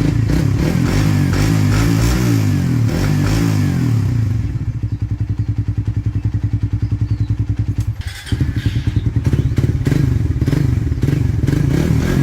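Motorcycle engine running and being revved, its pitch rising and falling over the first few seconds, then holding steadier. It dips briefly about eight seconds in and picks up again.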